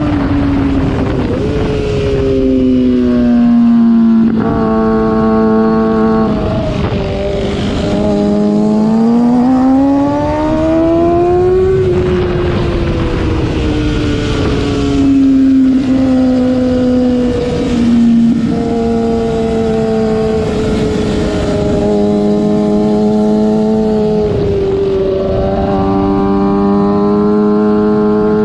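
Sport motorcycle's engine heard on board at track pace, its pitch falling, jumping and climbing several times with throttle and gear changes, over wind rush.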